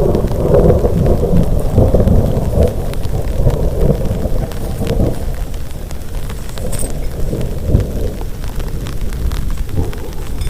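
Thunder rumbling and slowly dying away through a steady downpour of heavy rain, with scattered sharp raindrop ticks.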